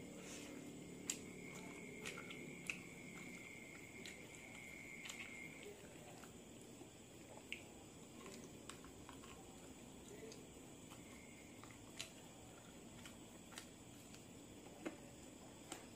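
Close-up mouth sounds of a person eating chicken feet: soft chewing with a dozen or so sharp clicks and snaps scattered through as the bones and skin are bitten. A faint steady high tone sits under the first five seconds.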